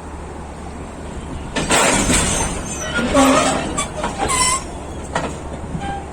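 Train standing with its engine running in a steady low rumble; about a second and a half in, a loud hiss lasts about a second, followed by a few short squeals and knocks.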